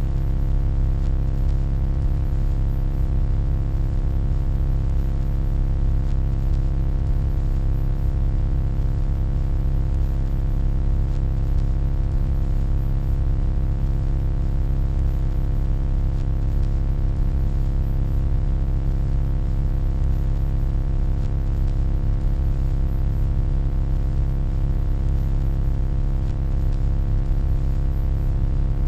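Steady, unchanging electronic hum, heaviest in the deep low end, with many steady tones layered above it and a faint hiss on top.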